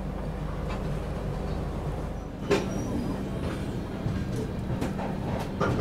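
Steady low rumble of a passenger train running, heard from aboard a coach. About two and a half seconds in, a sharp knock, followed by scattered clicks and knocks over a steady background.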